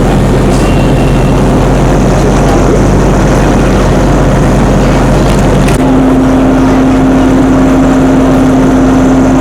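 Loud, steady rumble of a narrow-gauge train running. About six seconds in, a single steady tone comes in and holds to the end.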